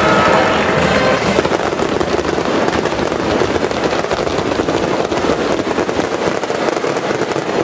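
Daylight fireworks: a dense, continuous crackle of many firecrackers going off in rapid succession, too fast to count as separate bangs.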